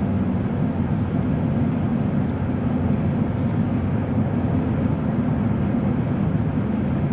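Steady low rumble of a car driving at highway speed, heard from inside the cabin: engine and tyre noise on the road.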